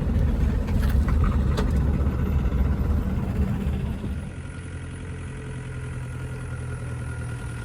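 Hindustan Ambassador with a Stride engine, heard from inside the cabin: running noise on the move that drops about four seconds in to a quieter, steady engine hum at idle.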